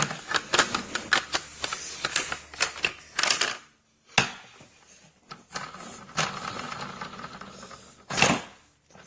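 Rapid, irregular clicking and clattering for about three and a half seconds, then, after a brief pause, a single sharp knock and a quieter stretch of faint rustling with one louder burst near the end.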